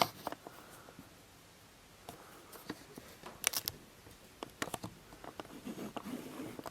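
Scattered small clicks and knocks of hard parts being handled and adjusted on a workbench, the loudest a quick pair about three and a half seconds in.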